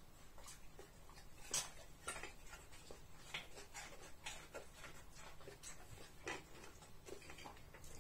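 Faint, irregular crisp clicks and crunches of raw vegetables being chewed, the sharpest click about a second and a half in.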